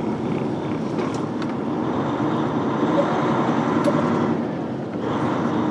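Semi truck's diesel engine running, heard from inside the cab as a steady low drone.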